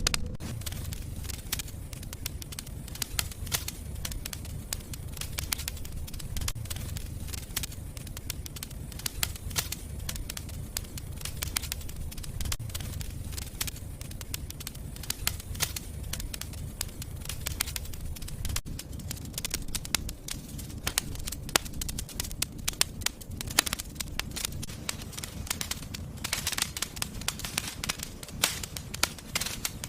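Wood fire burning in a fireplace: a steady low rumble of the flames with frequent sharp crackles and pops, most dense near the end.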